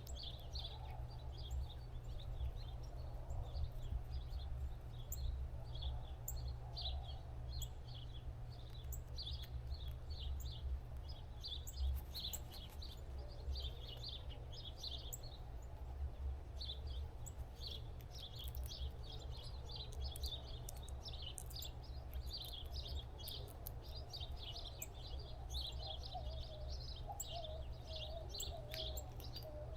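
Small birds chirping in a dense, continuous chatter of short high notes, over a steady low rumble.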